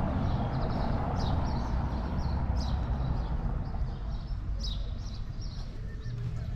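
Small birds chirping, short high calls repeating about once a second, over a low rumble that slowly fades away.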